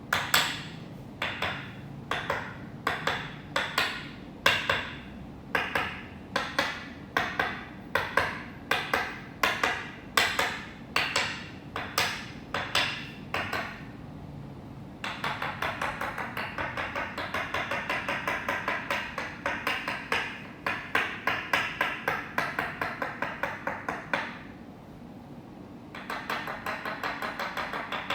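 Toksen massage: a wooden mallet striking a wooden peg held against the body, sharp knocks in short runs of two or three, then a fast, steady rapid tapping from about halfway. It stops for a couple of seconds near the end and then picks up fast again.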